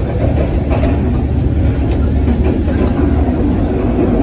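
Steady low rumble of a moving sleeper train carriage running on the rails, heard from inside the carriage, with a few light knocks.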